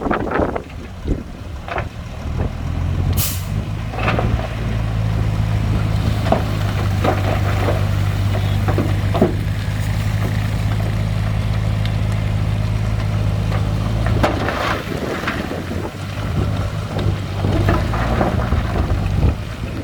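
Heavy diesel construction machinery running steadily, with scattered metallic clanks and knocks and a short burst of air hiss about three seconds in.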